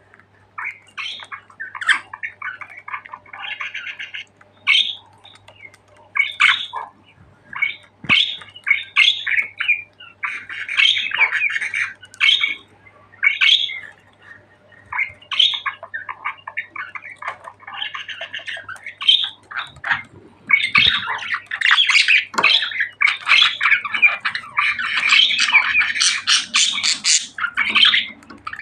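Budgerigars chattering, warbling and squawking in short bursts of chirps that grow denser and louder past the middle.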